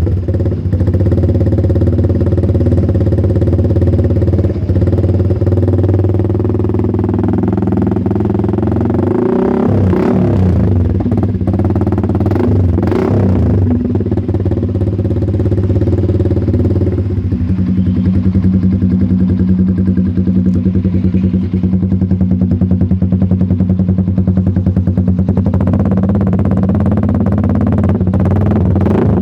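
Yamaha MX King's 150 cc single-cylinder four-stroke engine idling through an aftermarket DBS exhaust, with two short throttle blips about ten and thirteen seconds in. The idle note changes around seventeen seconds in and then runs steadily.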